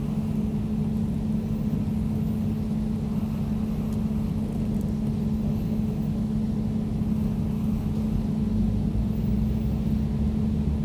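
Air conditioner running: a steady low hum with a faint airy hiss above it, unchanging throughout.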